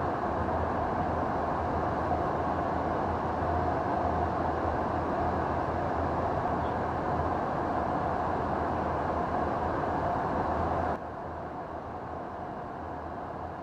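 Steady aircraft engine noise, an even rushing drone with a low hum underneath, that drops suddenly to a quieter level about eleven seconds in.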